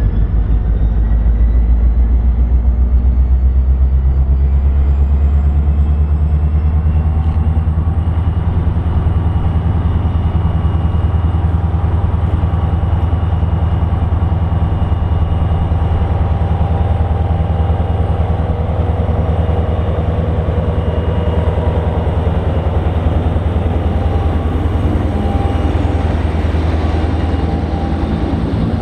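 Railroad locomotive running steadily with a deep, even rumble, and a faint whine that rises in pitch over the first several seconds, then holds.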